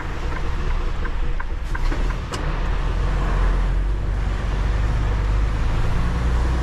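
Semi-truck engine running steadily while driving: a constant low rumble, with a few light ticks in the first second and a half.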